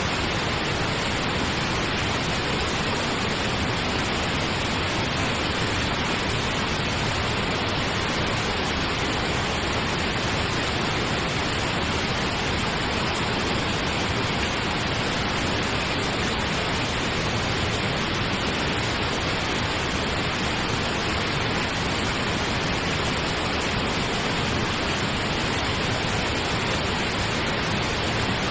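Steady pink noise, an even hiss with no changes.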